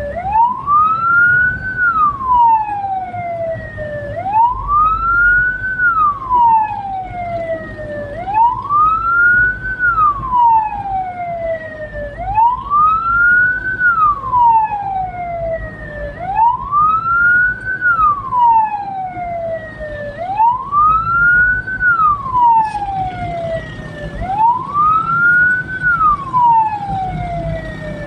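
A hearse's electronic siren wailing: a slow rise and fall in pitch that repeats about every four seconds, over the low rumble of the moving vehicle.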